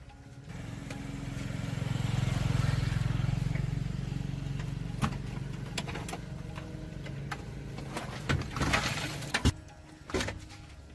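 A low motor hum swells up, peaks and fades over several seconds. Scattered sharp clicks and knocks follow, with a cluster of them near the end.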